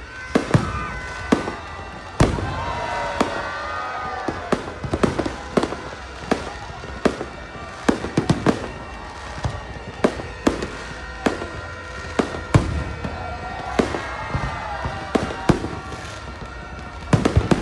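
Fireworks going off in a rapid, irregular series of sharp bangs and pops, with no let-up, over a continuous background din.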